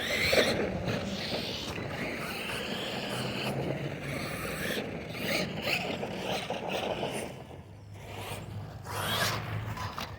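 RC monster truck running: its electric motor whines, rising and falling in pitch, while its tyres scrape and grind over the ground. The noise starts suddenly and eases off about eight seconds in before picking up again.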